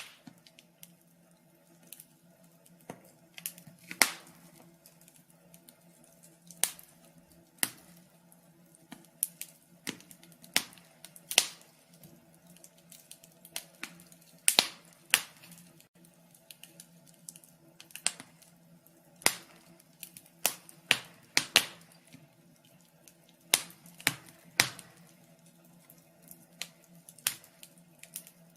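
Fire crackling: irregular sharp pops and snaps, some in quick clusters, a few much louder than the rest, over a faint steady low hum.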